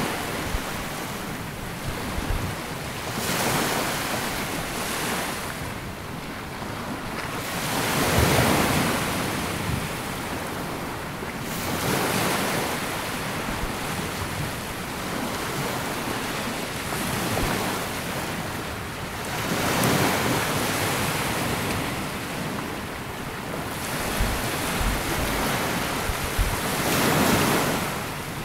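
Small waves breaking and washing up a sandy beach, a swell of surf every few seconds between softer hissing wash, with wind rumbling on the microphone.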